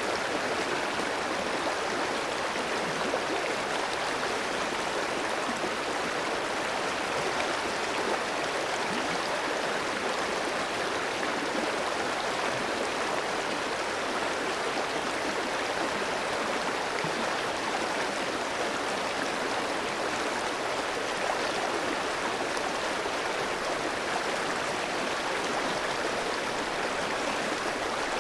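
Clear mountain stream flowing over rocks: a steady, even rush of running water.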